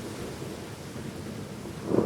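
Thunderstorm with steady rain hissing. A low thunder rumble fades away at the start, and a fresh roll of thunder swells in just before the end.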